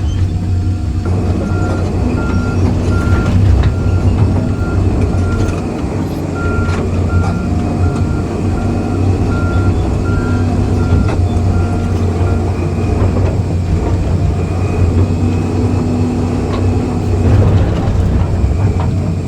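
Excavator diesel engine running steadily under load, with an evenly repeating warning beep, about two a second, from about a second in until past the middle. A few sharp metallic knocks are heard.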